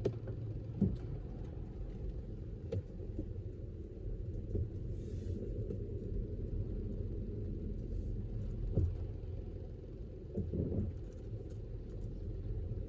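Steady low rumble of a car in slow traffic, with a few faint knocks and clicks.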